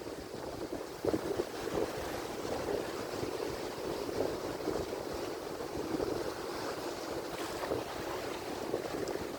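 Atlantic Ocean surf: waves crashing and washing in a continuous, surging rush, with wind buffeting the microphone.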